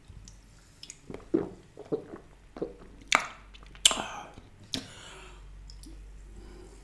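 A person gulping a fizzy drink from a can, several swallows in a row, then sharp breathy gasps through an open mouth, the burn of very spicy food, before drinking again.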